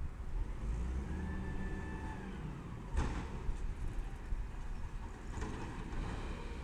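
Garbage truck running, with a high whine lasting about a second and a sharp bang about three seconds in.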